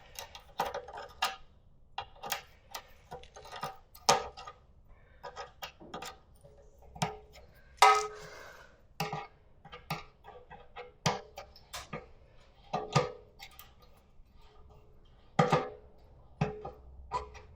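Irregular metallic clicks, taps and clinks of hand tools and a bolt as a fastener is fitted and done up on an old Kawasaki KD80 dirt bike, a few of the knocks ringing briefly.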